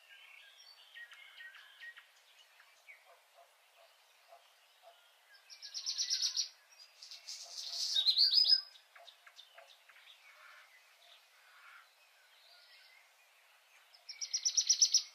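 Wild birds calling: three bursts of rapid, high chirping notes, about six seconds in, again around eight seconds, and near the end, with fainter calls between.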